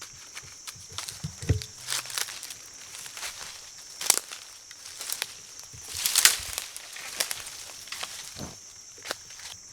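Footsteps pushing through dense undergrowth: twigs snapping and brush rustling in an irregular crackle, with louder cracks about four and six seconds in.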